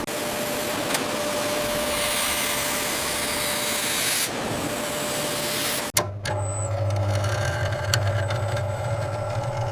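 Industrial factory machinery: a steady rushing hiss that breaks off suddenly about six seconds in, giving way to a steady low machine hum.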